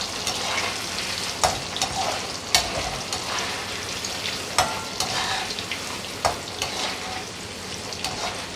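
Paneer cubes sizzling as they fry in hot oil in a metal kadhai, with a steady hiss. A perforated metal skimmer stirring them scrapes and clinks against the pan now and then.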